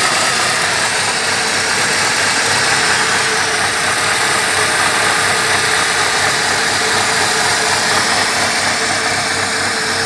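Mercedes M271 1.8-litre four-cylinder petrol engine idling steadily.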